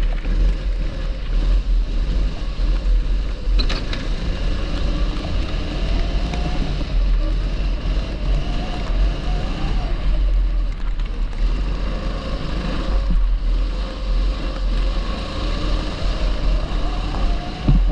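A TB kart's 270cc engine running at speed, its pitch rising and falling again and again as the throttle is opened and eased, with a heavy steady rumble of wind buffeting the microphone underneath.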